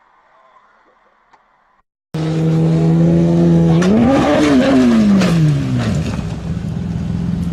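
After a short faint stretch, a loud vehicle engine comes in abruptly about two seconds in. Its note holds steady, then climbs steeply and falls away again over about two seconds, before settling into a steady low drone.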